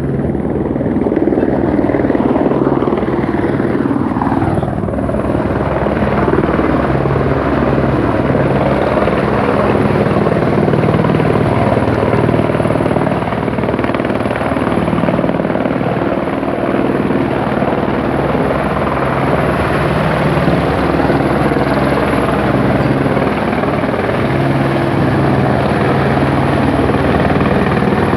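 Helicopter running close by, loud and steady, with the fast rhythmic beat of its rotor blades.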